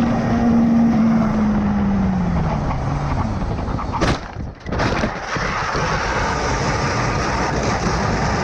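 A motorcycle crash: an engine note drops in pitch, then two hard impacts a little under a second apart, with a steady rush of wind and road noise throughout.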